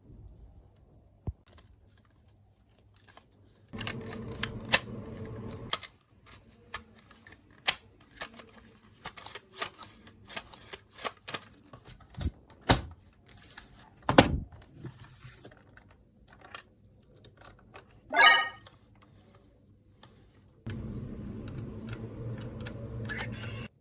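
Plastic toy parts being handled, with many sharp clicks and snaps. A small electric motor hums steadily twice, for about two seconds near the start and about three seconds near the end. A short pitched electronic call sounds once a little after the middle.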